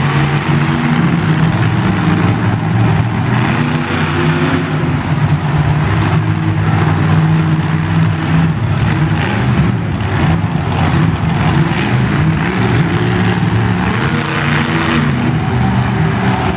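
Monster truck engines running loud, their pitch rising and falling as they rev.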